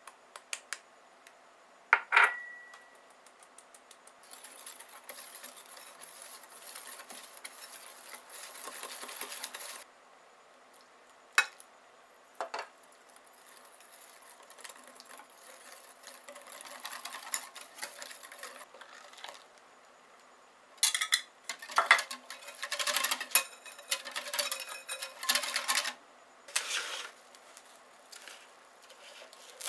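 A utensil working custard cream in a bowl: a ringing clink against the bowl about two seconds in, then stretches of fast stirring and scraping. Separate knocks and clatters of the utensil on the bowl follow, thickest in the last third.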